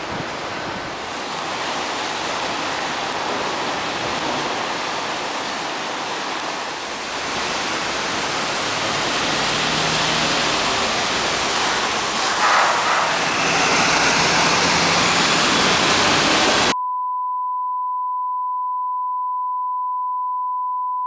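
A steady rushing noise that grows louder about eight seconds in, then cuts off abruptly and gives way to a steady 1 kHz test tone.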